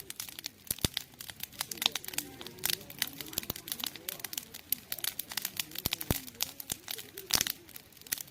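Wood campfire crackling, with irregular sharp pops and snaps, several a second, some louder than the rest.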